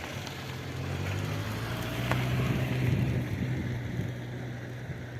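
A motor running with a steady low hum that grows louder toward the middle and then fades, as if passing by.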